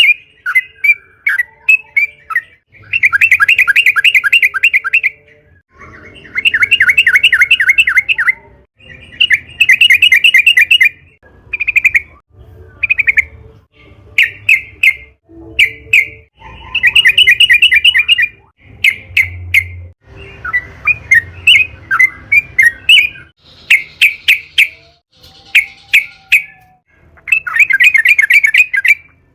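Sooty-headed bulbul (trucukan) singing. Rapid trilled phrases about two seconds long alternate with runs of short, separate notes.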